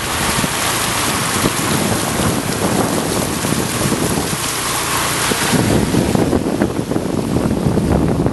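Wind buffeting the microphone: a loud, gusty rumble, with a steady rushing hiss over it that eases about five and a half seconds in.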